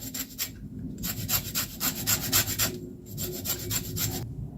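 Lemon being zested on a grater: quick rasping strokes, about five a second, in three runs with short breaks between them.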